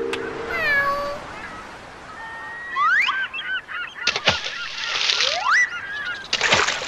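Squeaky, animal-like calls, several sliding up and down in pitch, with short bursts of rustling noise about four and six and a half seconds in.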